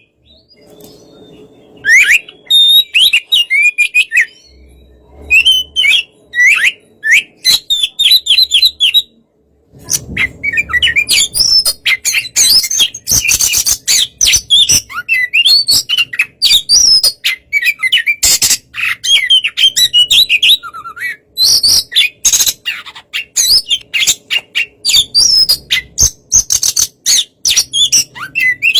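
Oriental magpie-robin (kacer) singing: a rapid run of clear whistles, chirps and harsh notes, breaking off briefly about nine seconds in and then going on as a dense, continuous stream.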